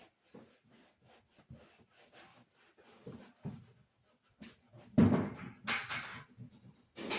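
Scattered light clicks, then a loud knock about five seconds in followed by rubbing and clattering, and another knock near the end: household handling noise while cleaning.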